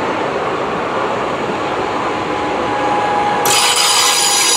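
Electric multiple-unit passenger train passing close by, with the steady rush and rumble of its wheels on the rails. About three and a half seconds in, a sudden high-pitched metallic wheel squeal of several tones sets in.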